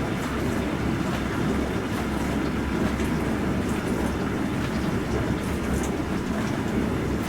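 Bosch Serie 4 SMS46MW05G dishwasher running a cycle: a steady low churning noise with a constant hum underneath.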